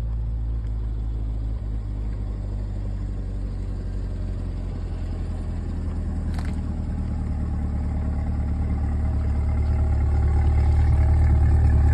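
2023 Corvette Stingray's 6.2-litre LT2 V8 with the Z51 exhaust idling steadily, growing louder over the last few seconds. A single short click about six and a half seconds in.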